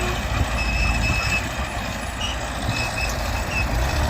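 Heavy earthmoving machinery running: a steady, loud low diesel rumble, with a few short high-pitched tones over it.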